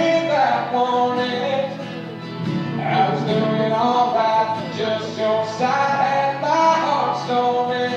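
Country music: a male voice singing a melody over guitar accompaniment.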